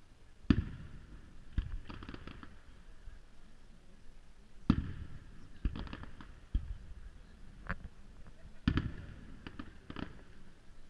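Aerial firework shells bursting: three loud bangs about four seconds apart, each followed by a few smaller, sharper pops.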